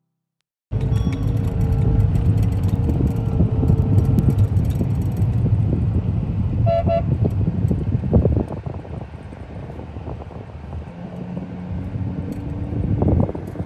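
Road traffic: vehicles running with a heavy low rumble, and a short car horn toot about seven seconds in. The rumble drops somewhat after about eight seconds.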